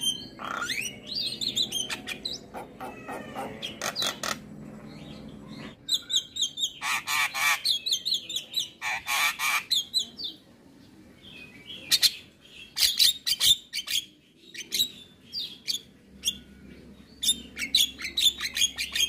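Javan myna singing: a varied, rapid run of chattering chirps, clicks and whistled notes, coming in bursts with short pauses between them.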